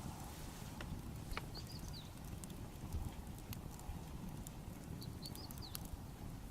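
Wood fire crackling with scattered sharp pops. A small bird gives a short whistled phrase twice, about a second and a half in and again about five seconds in.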